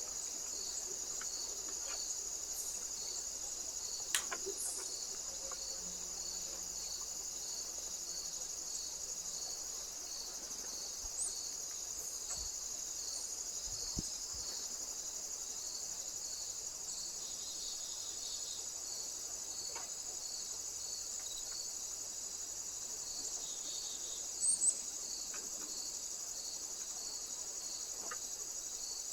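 Insects chirring steadily in a high continuous drone, with a second insect giving a regular chirp slightly more than once a second. A few faint clicks and a brief high chirp, near the end, break in over it.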